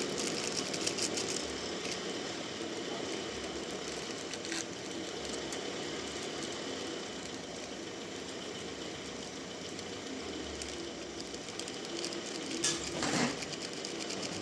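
Band sawmill running, a steady mechanical noise with a thin high whine, and a brief louder scraping burst near the end.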